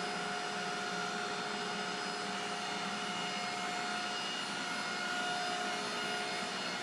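Erwin Junker CNC ID/OD grinder idling under power: a steady machine hum and hiss with a constant whine.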